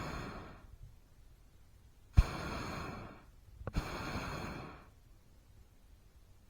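Short blasts from a hot air balloon's propane burner, each opening with a sharp click and hissing for about a second: one dies away early, then two more come about two and three and a half seconds in.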